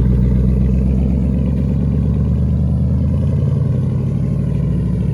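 Lifted pickup truck's engine running steadily with a low exhaust note, easing off slightly in loudness over a few seconds.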